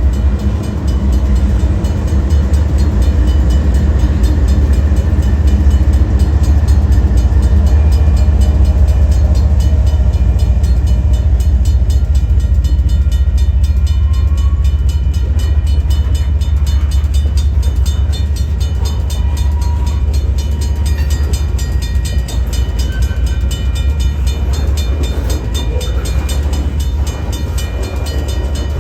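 Freight train rolling past, a loud steady low rumble of wheels on rail with fine regular clicking. A few brief high squeals come in the second half.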